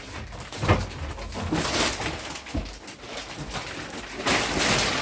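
Plastic wrapping being pulled off a mattress: irregular rustling and crinkling with a couple of dull thumps, louder near the end.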